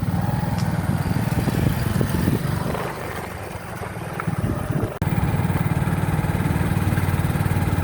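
Motorcycle engine running under way, a steady rapid low pulsing. It eases for a couple of seconds, then comes back abruptly at full level about five seconds in.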